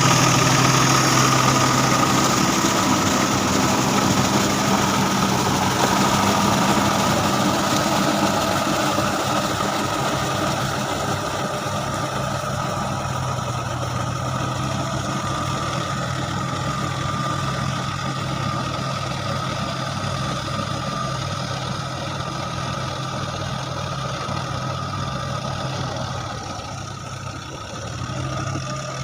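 Diesel tractor engine running steadily, slowly growing quieter, with a brief dip in level near the end.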